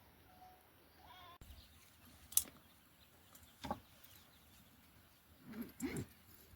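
Faint calls of farm animals, likely goats bleating, with a few sharp clicks or knocks. One call wavers about a second in, and two more calls come near the end.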